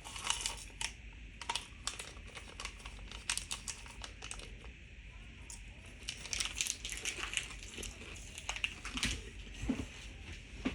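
Candy wrapper crinkling and rustling as it is handled, in irregular crackly bursts that are busiest a little past the middle.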